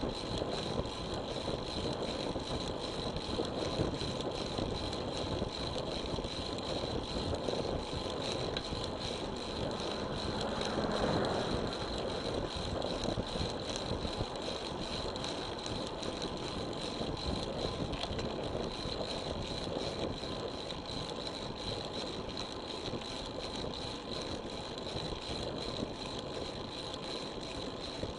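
Steady rushing wind and road noise from a road bicycle ride, picked up by a bike-mounted action camera, with a faint steady high whine throughout. The noise swells for a couple of seconds around eleven seconds in.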